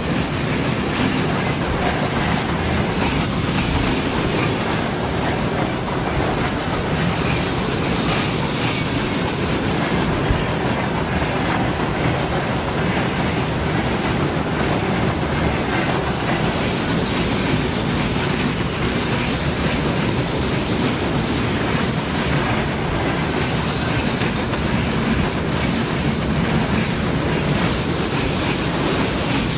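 Freight train's wagons rolling past on the track, a steady noise of wheels on rails that runs on without a break.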